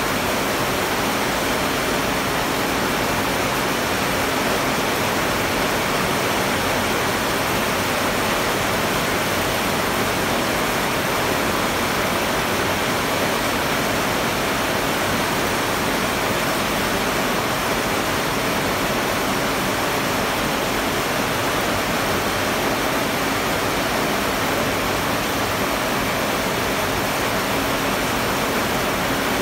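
Heavy rain falling steadily, a dense even hiss, with water pouring off a roof edge just in front.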